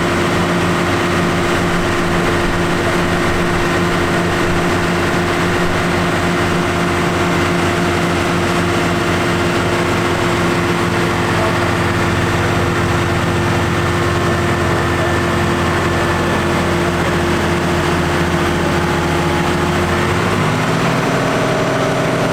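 Valtra T175 tractor's diesel engine running steadily at high revs while driving a PTO dynamometer under load. About 20 seconds in, the engine note drops and changes as the revs fall.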